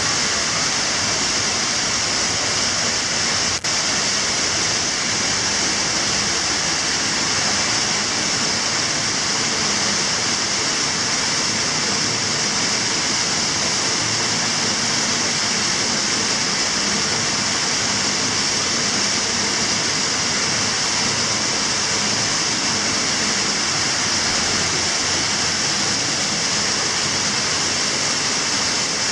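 Water spraying hard and steadily from a ruptured water pipe behind a toilet, a loud, even hiss like a firehose.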